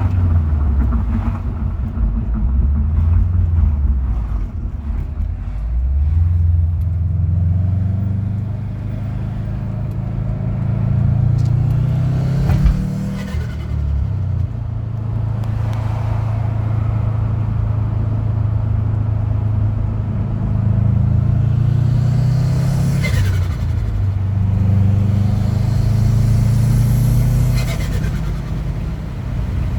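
Subaru WRX STI hatchback's turbocharged flat-four engine pulling hard, its pitch climbing and then dropping as the throttle is lifted, several times over. At about three of the lift-offs the turbo flutters with a short falling whoosh.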